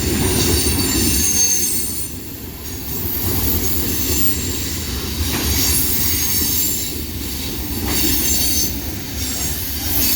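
Freight cars of a long mixed freight train rolling past: a steady rumble of steel wheels on rail with thin, high-pitched wheel squeal over it, swelling and fading as the cars go by, and a couple of sharp clicks partway through.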